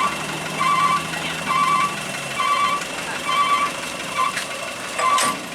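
A vehicle's reversing alarm beeping steadily, about one short beep a second, over a low engine hum that fades out about two seconds in.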